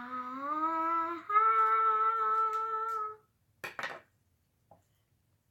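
A child singing or humming to herself: one held note that slides upward, then a higher, louder held note ending about three seconds in. A brief scratchy rustle follows.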